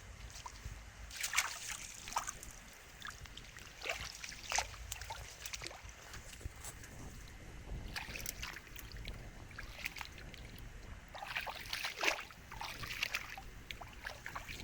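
Water splashing and trickling in irregular bursts, with the sharpest clusters about a second in, around four seconds, eight seconds and twelve seconds in.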